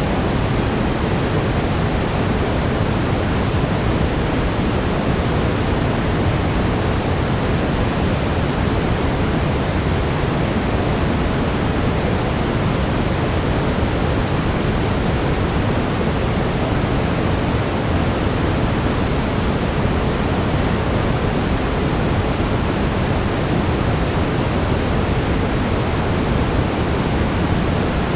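Steady brown noise: an even, deep rushing hiss, strongest in the low end, unchanging throughout.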